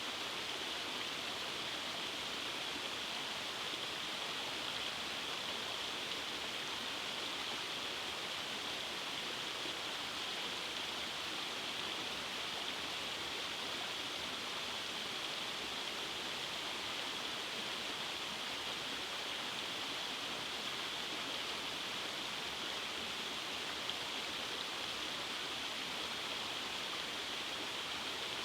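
Rainforest creek cascades: water rushing and splashing over rocks in a steady, unbroken rush.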